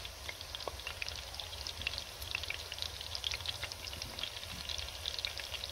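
Chicken mince kebabs shallow-frying in hot oil in a kadai: a steady sizzle full of small, quick pops and crackles, with a low steady hum underneath.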